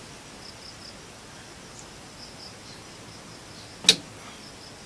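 A single sharp click about four seconds in as the awl of a Victorinox Pioneer Swiss Army knife snaps open against its backspring, over faint steady hiss.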